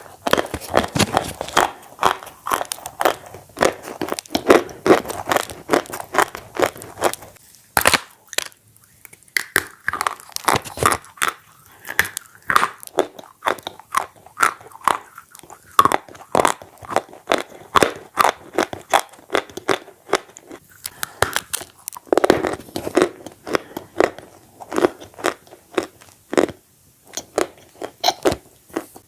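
Close-up eating sounds: biting, crunching and chewing of bread dipped in red clay paste, a dense run of small crunches and mouth clicks with a few brief pauses.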